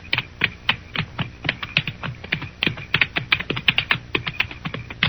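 Radio-drama sound effect of horses' hooves clopping at a walk on hard ground: sharp, uneven clicks several times a second. Night insects chirr faintly behind them.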